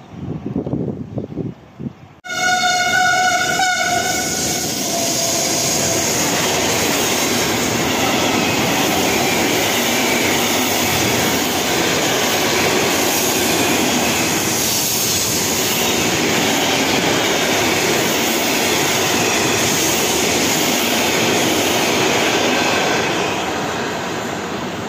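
Freight train passing through a station at speed. About two seconds in, the locomotive's horn sounds one short blast as the noise jumps up. After that comes a long steady rush of intermodal wagons rolling past, easing off near the end as the tail draws away.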